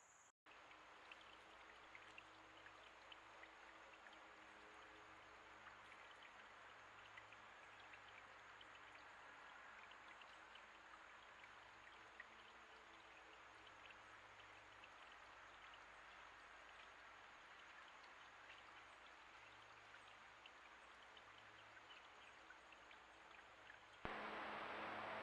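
Faint water sound, a soft steady trickling hiss scattered with tiny drip-like ticks, over the low hum and hiss of a trail camera's microphone.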